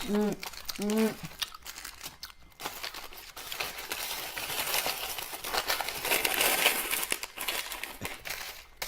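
Plastic candy wrappers and packets crinkling and rustling as hands rummage through a pile of wrapped sweets, a dense crackly rustle from about two and a half seconds in.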